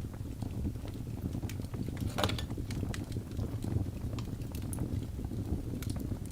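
Birch logs burning in a fireplace: a steady low rumble of flames with scattered small crackles and pops, one louder pop a little over two seconds in.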